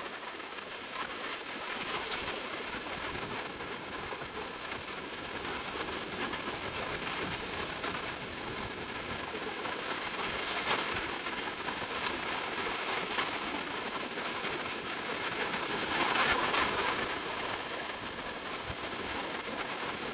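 Sea waves washing onto the beach, a steady rushing with swells as waves break, the largest about three-quarters of the way through.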